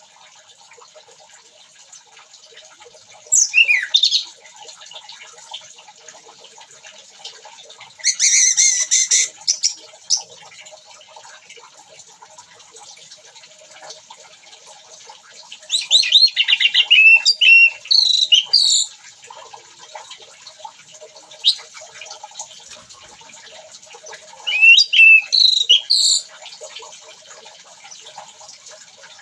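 Orange-headed thrush singing in four loud bouts of quick, sliding high whistled phrases, each one to three seconds long, with quiet gaps between.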